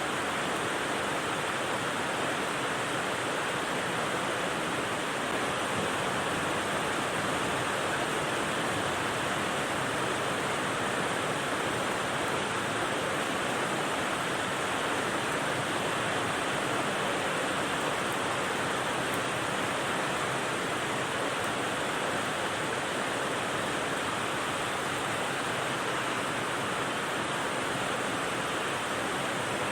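Steady white-noise rain: an even, unbroken hiss with no separate drops or patter standing out, fullest in the middle range and not changing at all.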